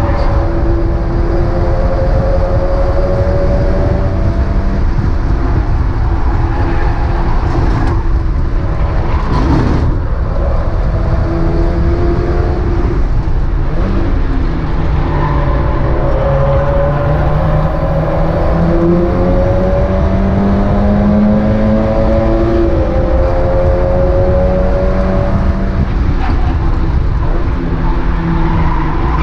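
Mazda MX-5 race car's four-cylinder engine pulling hard through the gears, its pitch climbing and then dropping at each shift, over heavy road and wind rumble. A short knock about ten seconds in.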